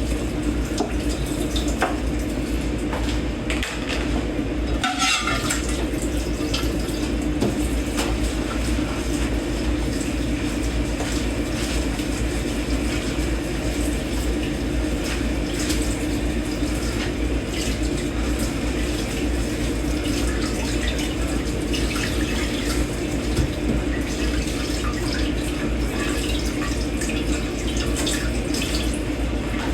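Tap water running steadily into a kitchen sink during hand dishwashing, with scattered light clinks of dishes and cutlery and a short clatter about five seconds in.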